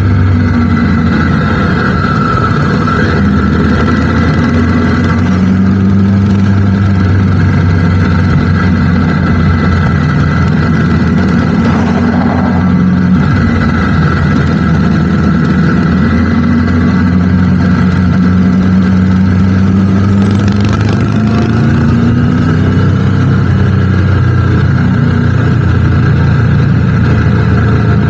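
Triumph Tiger 900 GT Pro motorcycle's three-cylinder engine running steadily, its pitch drifting slightly up and down, over a constant rush of noise.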